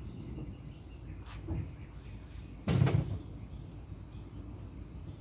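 A car door shutting with one heavy thump about three seconds in, after a lighter knock a little over a second in.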